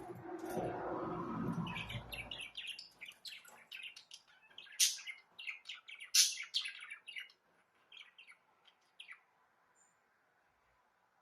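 Budgerigars chirping in quick, sharp calls that are loudest about five and six seconds in, then die away. A low rushing noise fills the first two seconds or so.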